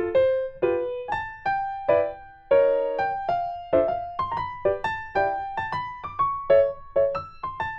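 Background music: a piano playing a light melody of plucky notes, several a second, each fading after it is struck.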